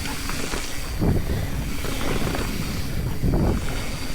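Mountain bike descending a dirt trail: steady wind rush on the microphone with tyre rumble and rattle over the ground, swelling heavier about a second in and again a little past three seconds.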